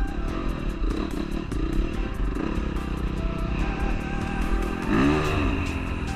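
Dirt bike engine running, with one rev that rises and falls about five seconds in and frequent sharp clatter throughout. Background music plays along.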